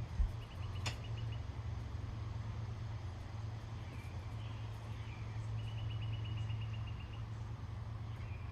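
A small bird's rapid trill of evenly spaced high notes, heard twice, over a steady low hum, with a single sharp click about a second in.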